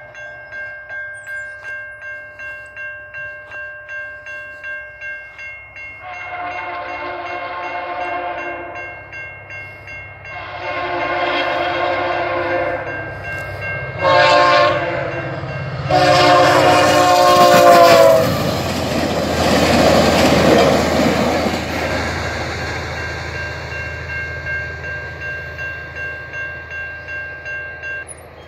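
Level-crossing bell ringing steadily while VIA Rail passenger train 28 approaches, sounding its horn in the grade-crossing signal: two long blasts, one short and one long. The train then passes in a loud rush of wheel and engine noise that slowly fades, and the bell stops near the end.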